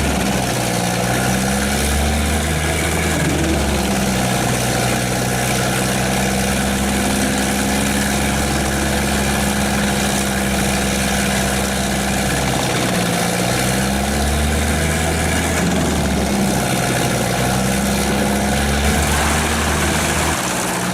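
Large forestry wood chipper running: a loud, steady engine note with a dense grinding noise over it. The engine's pitch dips and recovers several times, near the start, around the middle and near the end.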